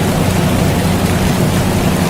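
Steady rain hiss mixed with the continuous low hum of an air conditioner, even and unchanging.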